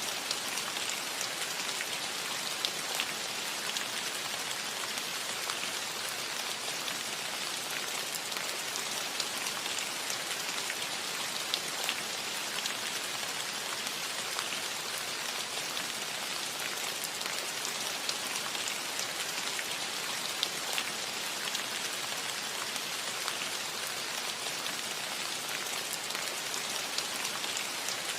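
Steady rain falling on a roof, an even hiss with scattered sharper drop ticks.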